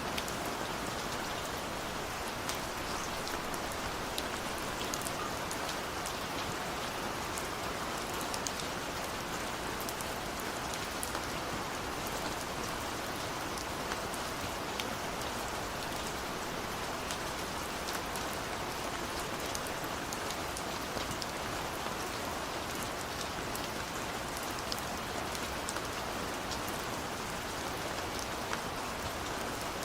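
Steady rain on a window pane: an even hiss of rainfall with many small, sharp drop taps scattered through it.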